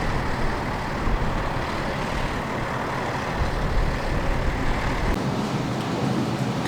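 Water truck running: a steady rumble of engine and road noise, its deepest part dropping away about five seconds in.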